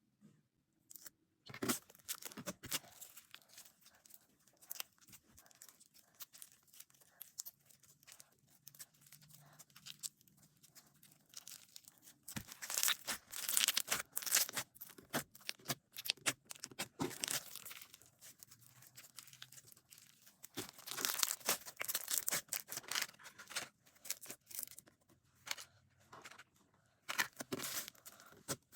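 Slime being squished, stretched and poked by hand: irregular sticky crackles and small pops, coming thicker in two spells around the middle.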